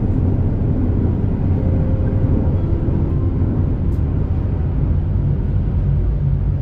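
Super Jet high-speed passenger ship running under way, its engines and hull giving a steady low rumble inside the passenger cabin, with a faint steady hum and a single brief click about four seconds in.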